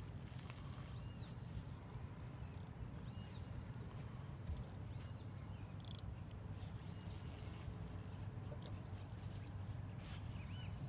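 A bird repeating a short, high arched chirp every couple of seconds, over a steady low rumble of outdoor background noise.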